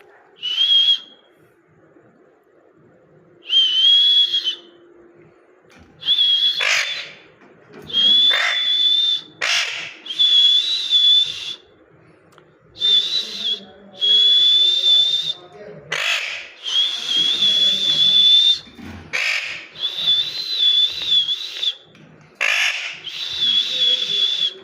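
A parrot calling over and over: loud shrill whistled calls, each held on one high pitch for up to a couple of seconds, mixed with short harsh squawks, coming faster after the first few seconds.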